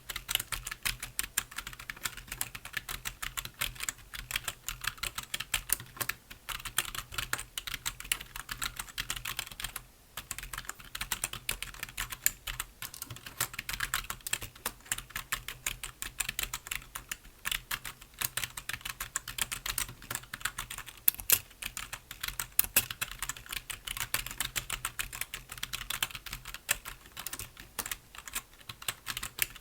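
Computer keyboard being typed on continuously, a quick run of key clicks with a brief pause about ten seconds in.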